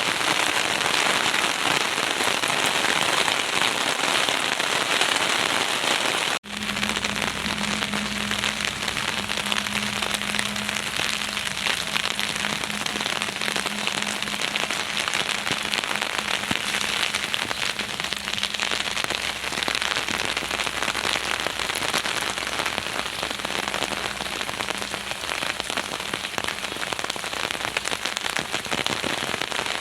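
Heavy rain pouring down steadily, a dense even hiss of rain on surfaces. About six seconds in the sound cuts out for an instant, and after that a faint low hum runs under the rain for most of the rest.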